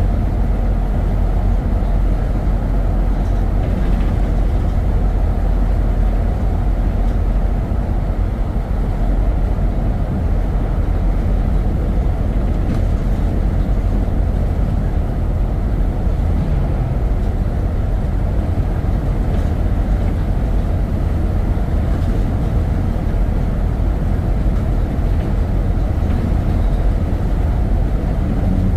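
Steady road and wind noise from a moving vehicle: an even, unbroken rumble, strongest in the low end, with no change in speed.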